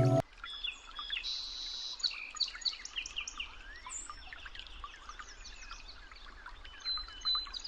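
Small birds singing: many short chirps, trills and quick rising and falling whistled notes overlapping.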